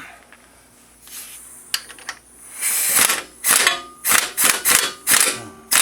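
Impact wrench buzzing off bolts in a string of short bursts, about seven in a row over the last three seconds, the first burst the longest.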